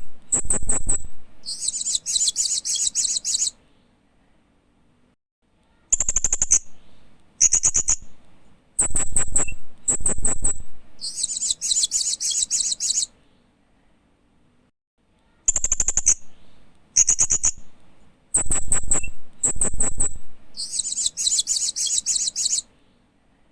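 Hanging parrot (Loriculus) calling: a run of sharp, high chirps followed by a buzzy high trill about two seconds long. The same sequence comes three times, about every nine and a half seconds, with short pauses between.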